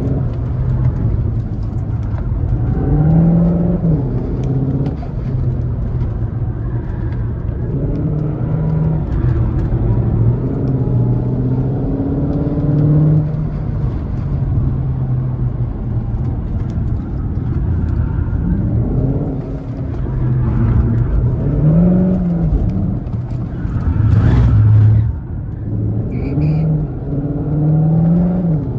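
Cupra Formentor e-Hybrid 245's turbocharged four-cylinder petrol engine under hard driving, its pitch rising and falling again and again as it revs through corners. About three quarters of the way through there is a brief rush of noise.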